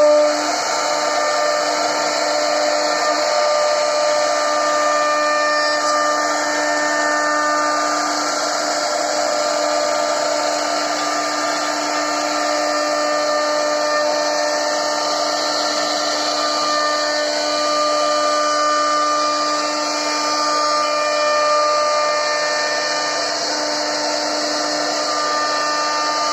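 CNC wood router's spindle running and carving a wooden board: a steady whine with several held tones over the cutting noise.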